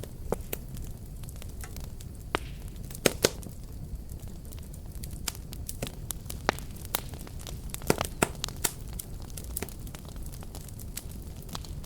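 Fire crackling: irregular sharp pops and snaps, a few louder ones, over a low steady rumble of burning.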